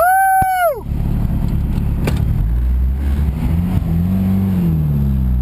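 Turbocharged Honda Civic's engine heard inside the cabin, running at low revs with its pitch rising and falling as the car rolls on. Near the start, a single loud high tone lasting under a second, which rises in and falls away at its ends.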